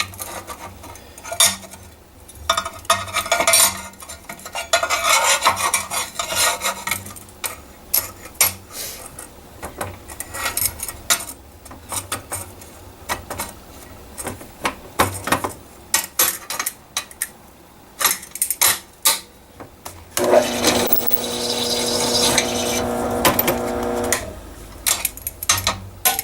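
Drill press cutting a bolt hole in a steel plate with a unibit step bit: irregular metallic scraping, clicking and chip clatter, then a steady pitched whine for about four seconds near the end as the bit cuts.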